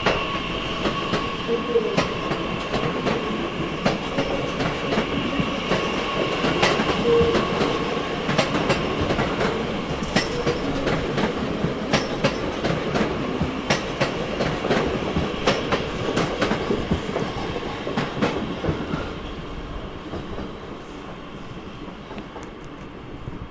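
Train rolling slowly through the station, its wheels clicking over rail joints and points, with a steady electric whine over the rumble; it fades away near the end.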